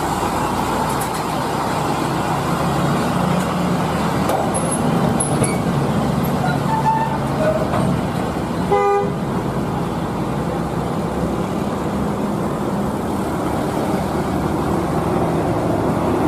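A heavy truck's engine running steadily, with one short horn toot nearly nine seconds in.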